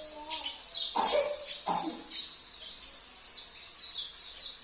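Small songbirds singing rapid, high-pitched chirps and trills, a white-eye (pleci) song track layered with other species' songs such as a canary's. A lower, harsher call sounds a second or two in.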